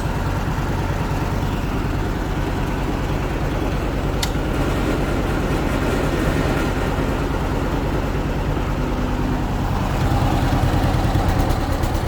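John Deere 420W's two-cylinder engine idling steadily while still warming up, with its pulsing beat. There is a single sharp click about four seconds in, and the engine runs slightly louder near the end.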